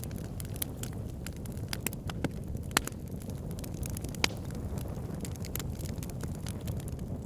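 Wood fire burning in a fireplace: a steady low rumble of the flames with irregular sharp crackles and pops, two of them louder, a little under three seconds in and a little over four seconds in.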